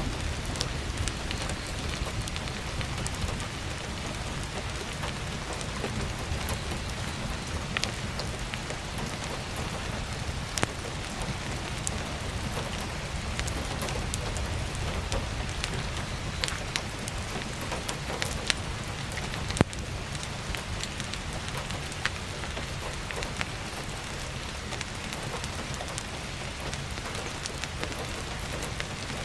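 Steady heavy rain with a low rumble underneath, and sharp crackles and pops of burning firewood every few seconds, the loudest about halfway through.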